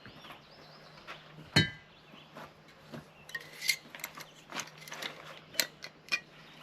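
Light clinks and knocks of hard objects being handled, with one loud ringing metallic clink about a second and a half in, over a faint steady low hum.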